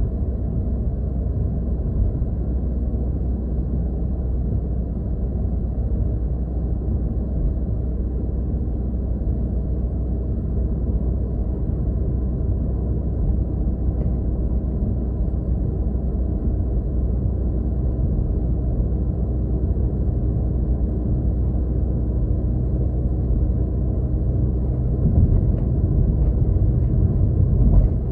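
Steady low rumble of engine and road noise heard from inside a moving car, getting a little louder near the end.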